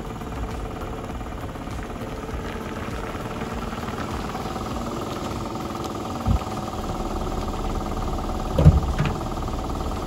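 Chevrolet Celta's four-cylinder engine idling steadily, with a dull thump past the middle and a louder thump near the end.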